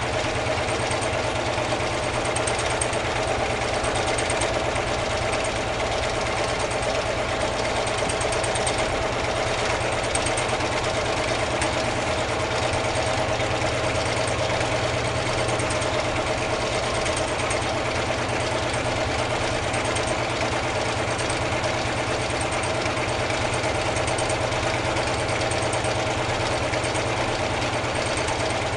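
Home-made four-cylinder double-acting alpha Stirling engine running at a steady, unchanging speed.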